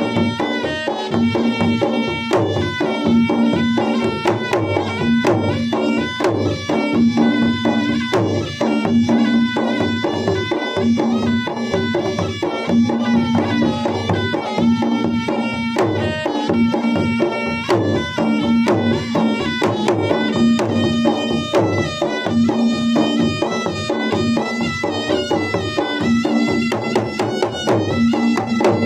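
Traditional Makassar wedding drum ensemble (gendang pengantin) playing: gendang drums beat a fast, steady rhythm under a continuous, unbroken melody.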